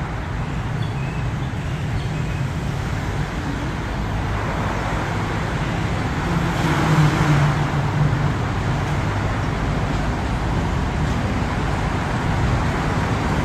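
Alstom diesel-electric locomotive hauling a freight train past at close range. Its engine drones steadily under the rumble of the train running on the track, growing loudest about seven seconds in as the locomotive goes by.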